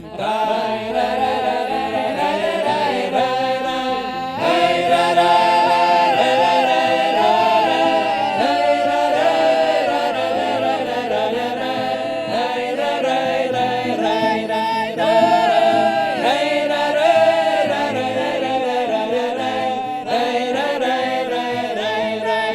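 Mixed ensemble of men and women singing a Russian folk song a cappella in several voice parts, in the drawn-out village singing style of Podserednee in the Belgorod region.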